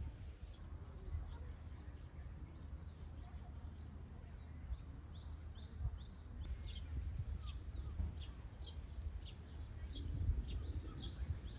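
A bird calling outdoors: faint high chirps at first, then, about halfway through, a run of sharp high notes repeated about twice a second. A steady low rumble of wind or handling noise lies underneath.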